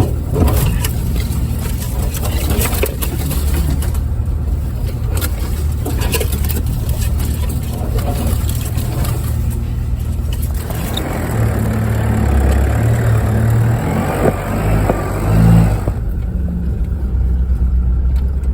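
A 4x4's engine running steadily at low speed over a rough track, with knocks and rattles from the bumps. For about five seconds in the second half a scratchy, scraping noise joins it.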